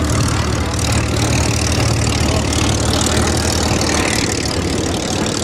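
Propeller aircraft piston engines running steadily: a loud, even low drone with a noisy wash over it.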